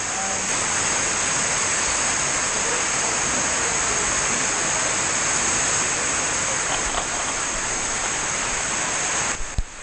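Heavy rain pouring down, a loud, steady hiss of water.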